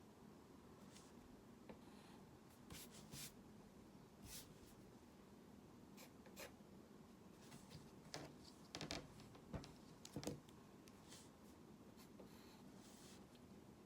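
Faint scratching strokes of a drawing tool on a drawing surface, irregular and short, with a quicker cluster about eight to ten seconds in.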